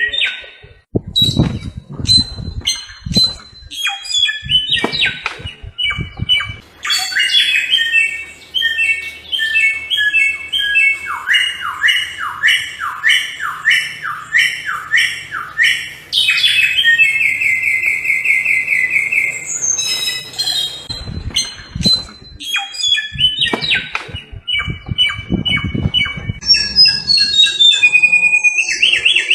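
Samyong songbird singing a long, varied song of sharp repeated notes, rapid note series and fast trills. There is intermittent low rumbling noise near the start and again about two-thirds of the way through.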